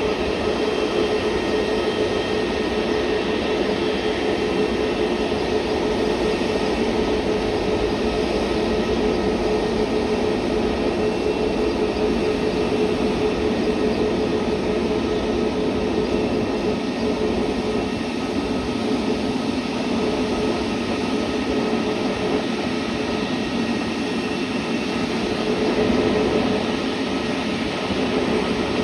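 Jet airliner engines running at a steady speed: an even rushing noise with several steady whining tones held at one pitch throughout.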